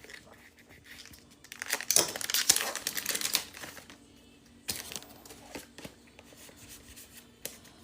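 Foil wrapper of a Pokémon TCG booster pack being torn open and crinkled, a dense crackling for about two seconds, then a few short crinkles later.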